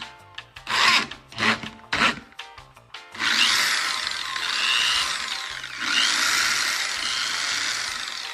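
Three short rasping strokes, then a power tool grinding steadily for about five seconds, its pitch sweeping up and down, with background music underneath.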